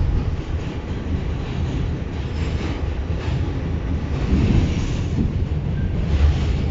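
New York City subway train (N train) running along the track between stations, with a steady low rumble of wheels on rails.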